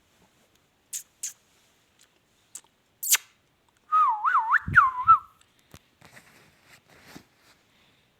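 Ringneck parrot whistling a short warbling phrase of about a second, its pitch swinging up and down several times. A few sharp clicks come before it, and there are a couple of low thumps near its end.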